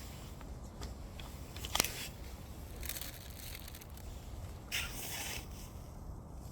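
Wood fire crackling over a steady low rumble, with one sharp pop a little under two seconds in and short hissing flares around three and five seconds.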